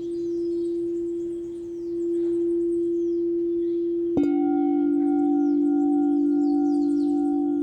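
Singing bowls: one bowl sustains a steady hum that swells and fades slowly, and about four seconds in a second, slightly lower bowl is struck and rings on with a clear tone and higher overtones.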